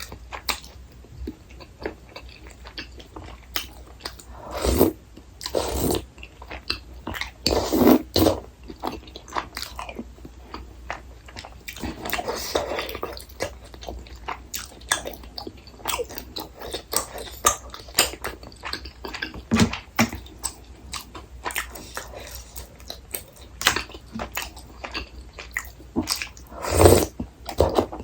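Close-miked eating sounds: steady chewing and biting with many small wet mouth clicks, and a few louder bites or mouthfuls scattered through.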